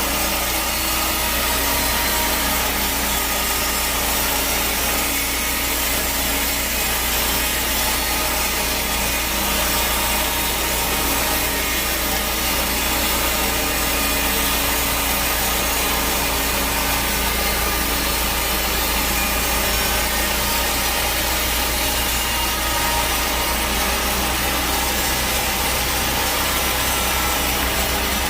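Bandsaw sawmill blade cutting steadily through a teak log, an even sawing noise over the low steady hum of the mill's motor.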